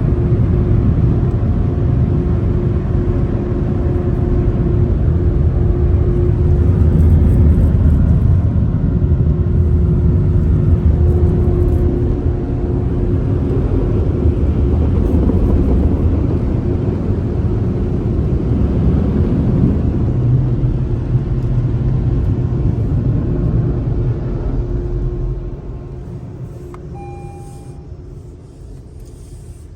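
Touchless automatic car wash machinery running with a loud, steady rumble and a constant hum. It dies down about 25 seconds in.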